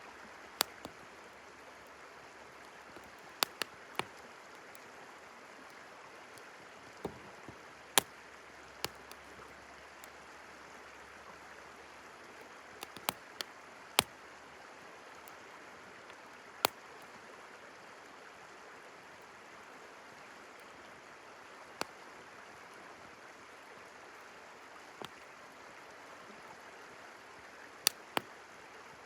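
Wood campfire crackling, with sharp, irregular pops, some in quick clusters and some several seconds apart, over the steady rushing of a river.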